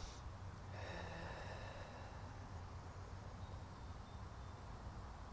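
A soft breath close to the microphone about a second in, over a steady low outdoor rumble.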